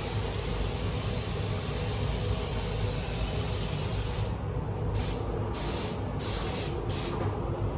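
Compressed-air paint spray gun spraying primer. A steady hiss runs for about four seconds, then breaks into four short bursts.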